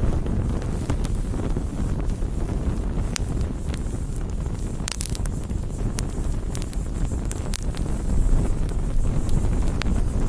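Campfire burning: a steady low rumble of the flames with scattered sharp crackles and pops from the burning wood, a quick run of them about five seconds in.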